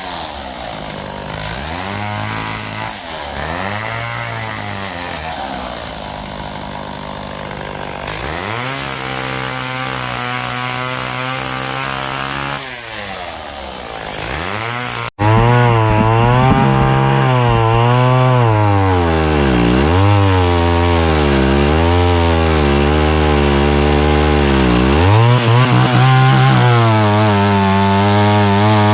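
Chainsaw cutting wood: the engine's pitch sags each time the chain bogs into the cut and climbs back as it frees, over and over. Just past halfway the sound breaks off abruptly and resumes louder, with the same repeated dips.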